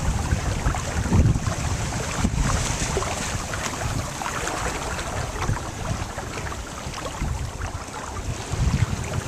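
Strong wind buffeting the microphone in gusts, over the rush and splash of water along a sailboat's hull as it sails hard in over 20 knots of wind.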